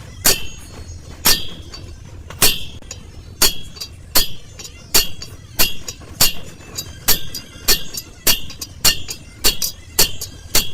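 Hammer striking steel on a truck's rear wheel hub, a series of sharp ringing clinks, about one a second at first and quickening to nearly two a second later on.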